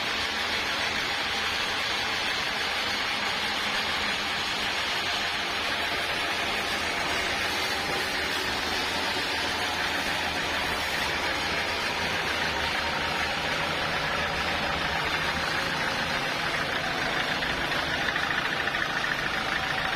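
Sawmill machinery running steadily, a continuous mechanical hum and hiss that holds an even level throughout.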